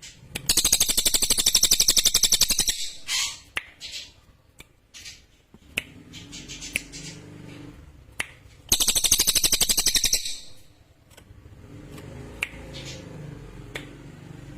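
Cililin singing: two long, very fast, shrill trills, the first about 2 seconds long near the start and the second about a second and a half long after about 8 seconds, with short single chips in between.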